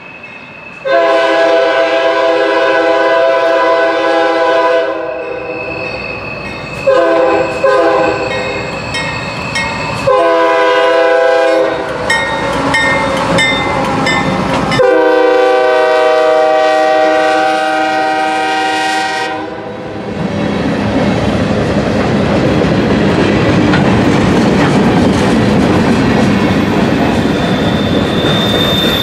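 CSX freight train's diesel locomotive blowing its air horn in several blasts, the first and last long with shorter ones between, as it approaches and passes. After the horn stops, the freight cars roll by with a steady wheel-on-rail rumble and clickety-clack.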